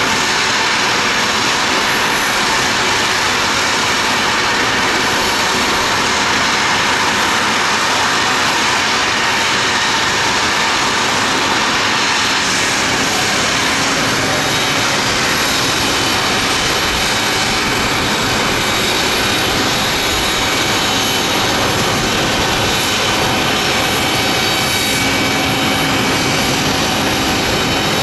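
Jet aircraft engines running steadily at idle, an even loud rush with a faint high whine.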